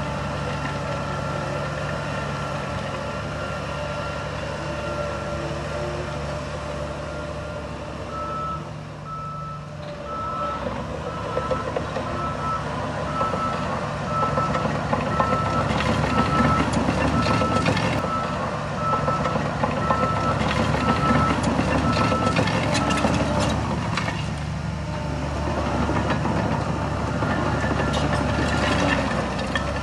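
A heavy machine's reversing alarm beeping at an even pace, one pitch, over the steady running of its diesel engine. The engine noise grows louder and more rattly partway through, and the beeping stops a few seconds before the end.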